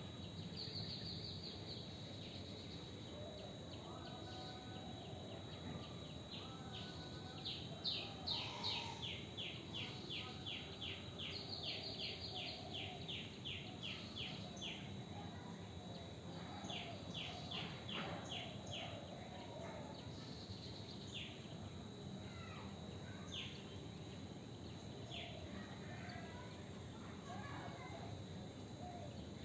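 Birds calling against a steady background hiss. The calls come as runs of short, high chirps repeated several times a second, loudest around the middle. A thin, steady high tone runs underneath.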